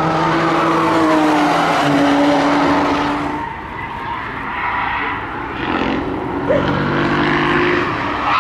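Two cars passing on a race track one after the other: first an estate car's engine running steadily under power as it pulls away, then, after a cut about three and a half seconds in, a BMW 3 Series Touring's engine, its note rising as it comes through a corner toward the microphone.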